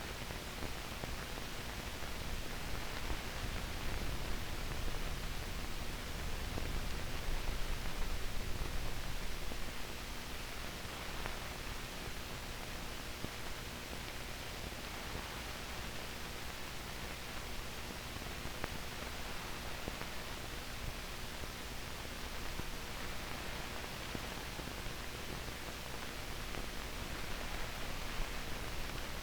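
Steady hiss with a faint low hum, and no program sound: the blank soundtrack of old newsreel footage.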